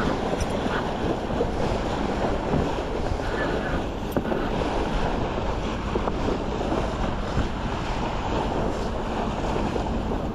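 Wind buffeting the microphone over the steady rush of water along the hull of a small yacht under way.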